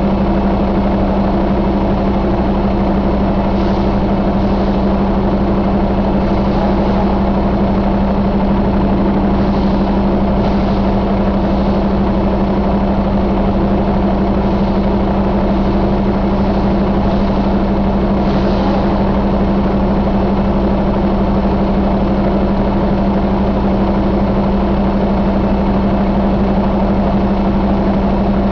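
Cummins X15 inline-six diesel engine idling steadily at an even pitch.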